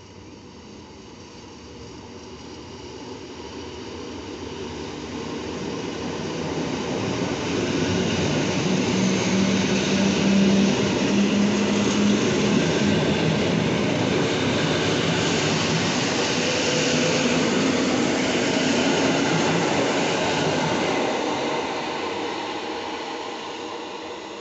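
Electric multiple unit passing through the station at speed. Its wheel and running noise builds steadily as it approaches, stays loud for about a dozen seconds as the cars go by with a steady low hum in the middle of the pass, then fades as it pulls away.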